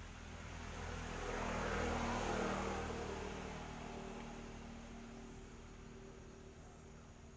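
A vehicle passing by, its noise swelling up over about two seconds and then fading away, with a low engine hum trailing off.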